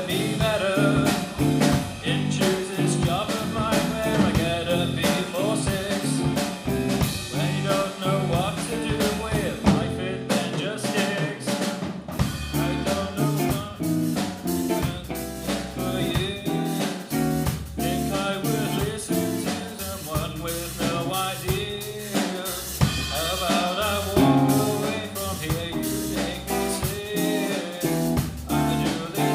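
Rock band playing a song: drum kit with snare and rimshots driving a steady beat over bass and guitar, with singing.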